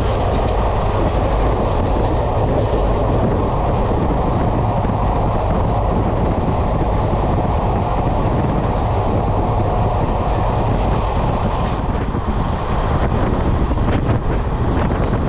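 Passenger train running along the track: a steady rumble of wheels on rail, with a few clicks late on.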